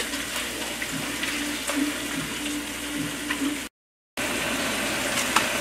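Herbs, aromatics and tomato paste sizzling in oil in a stainless steel sauté pan: a steady frying hiss with a few faint ticks of a spatula against the pan. The sound drops out to silence for about half a second at an edit two-thirds of the way through, then resumes.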